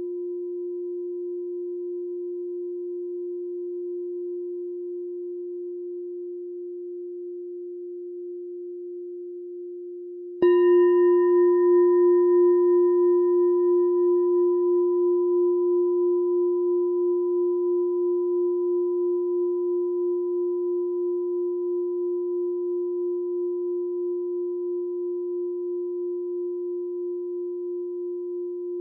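A meditation bell struck once about ten seconds in, after the last strike has slowly faded. A bright attack with high overtones that die within a few seconds, then a long, low ringing hum that wavers slowly as it decays.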